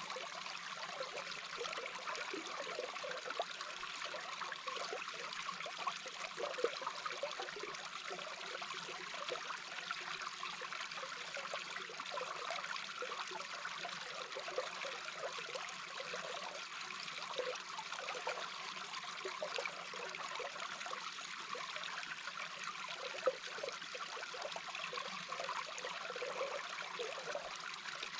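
A small brook heard underwater: a steady, continuous rush of flowing water with a busy patter of small, short bubbling sounds beneath it.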